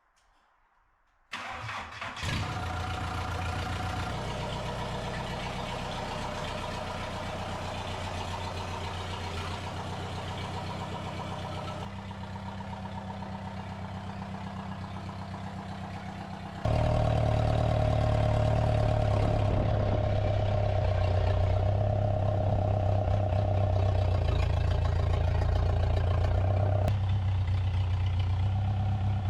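The homemade mini loader's engine starts about a second in and runs steadily. It becomes louder about two thirds of the way through, either from a throttle increase or a cut.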